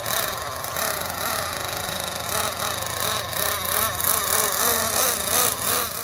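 Nitro engine of a Team Associated MGT 8.0 RC monster truck running, its pitch wavering up and down.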